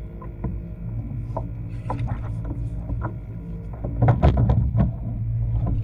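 Water lapping and splashing against a kayak hull over a steady low hum, with a cluster of louder splashes about four seconds in.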